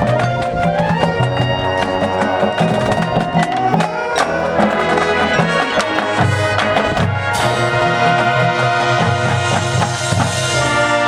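Marching band playing: brass chords over drumline percussion with many quick drum strikes, then a cymbal crash about seven seconds in, followed by sustained full brass chords.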